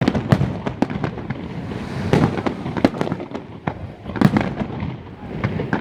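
Fireworks display going off: a rapid, irregular string of sharp bangs and crackles, with heavier booms about two and four seconds in.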